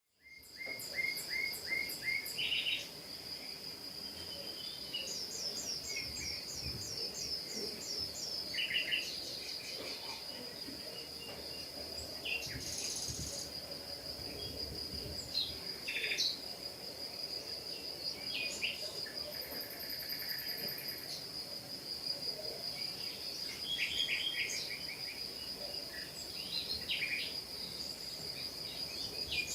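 Small birds singing and calling in quick series of chirps, over a steady high-pitched trill that runs throughout.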